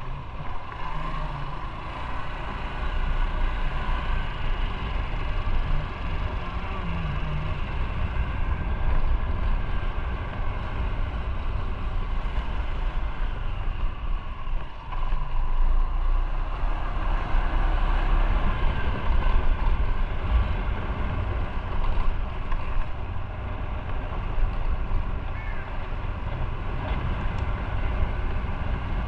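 Motorcycle riding along, its engine running with changing pitch and wind rushing past the microphone.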